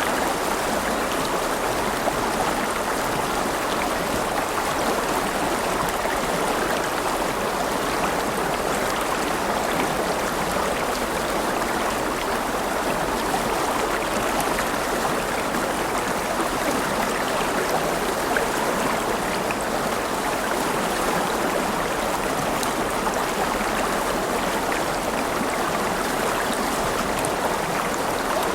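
River water flowing and rushing over stones, a steady even babble with no breaks.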